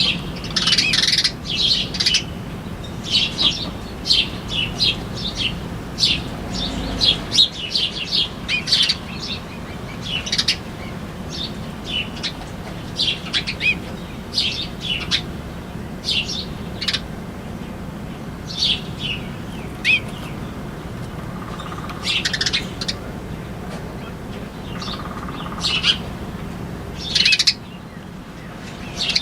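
Small birds chirping: many short, high chirps in quick clusters, scattered irregularly throughout, over a steady low hum.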